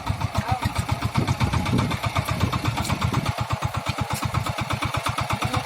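VST Shakti mini tractor's diesel engine running steadily with an even, rapid pulse of about nine beats a second.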